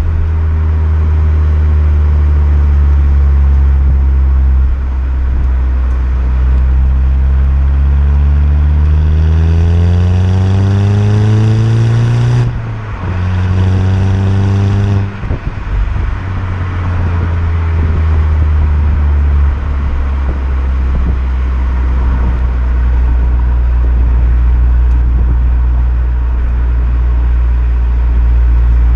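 Volkswagen Golf Mk6 GTI's 2.0 TSI turbocharged four-cylinder engine and exhaust while driving: a steady drone, then a rising pitch under acceleration for about four seconds. After a brief break the pitch drops and the engine pulls again, then eases off and returns to a steady cruise.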